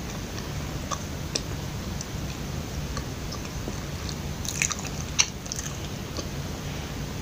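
Biting and chewing a soft, sticky glutinous-rice kuih (red ang ku with mung bean paste): scattered wet, sticky mouth clicks, the sharpest a little past halfway, over a steady low hum.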